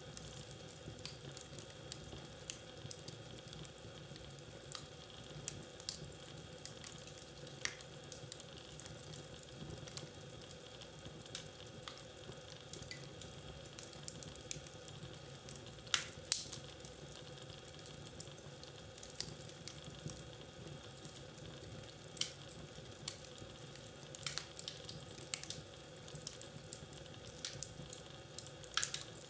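Wood fire burning in a fireplace, crackling with irregular sharp pops and snaps over a low steady hiss; the loudest pop comes about two thirds of the way through.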